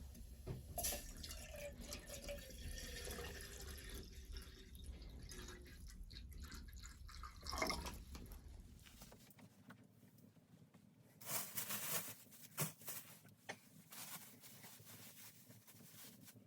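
Water dripping and being poured, with a few short handling noises and a sharp click in the second half.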